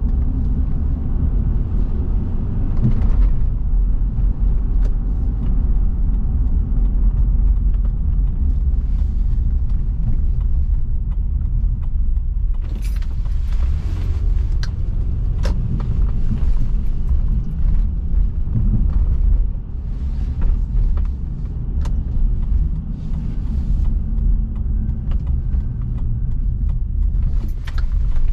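Car driving: a steady low rumble of road and engine noise with a fainter hiss above it. A few short clicks or knocks come through about halfway in and again near the end.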